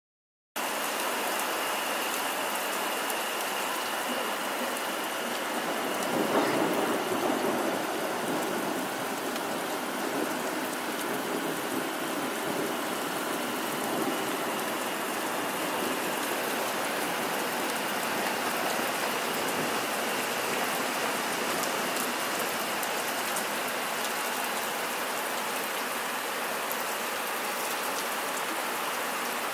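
Steady heavy rain falling and splashing on wet asphalt, a continuous hiss that swells louder for a couple of seconds about six seconds in.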